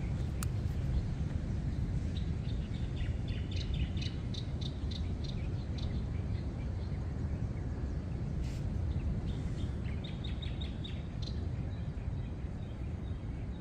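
Birds chirping in quick runs of short notes, one run about two seconds in and another about ten seconds in, over a steady low outdoor rumble.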